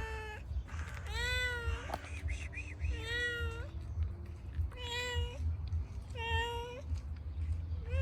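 A domestic cat meowing repeatedly: about four separate meows, each under a second long, some rising then falling in pitch.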